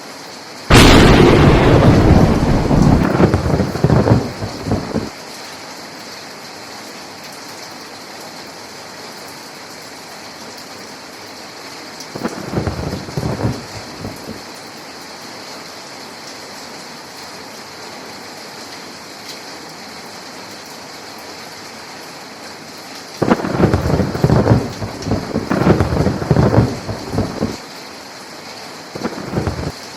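Steady rain with thunder. About a second in there is a sharp, close crack that rolls into a rumble lasting several seconds. A shorter rumble comes around the middle, and a long rolling peal fills most of the last quarter.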